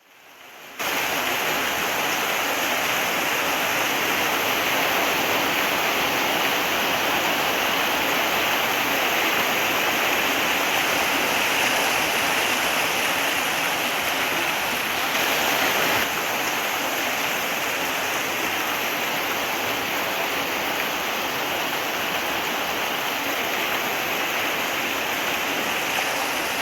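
Waterfall: a steady rush of falling water, starting abruptly about a second in, dropping slightly in level about two-thirds of the way through.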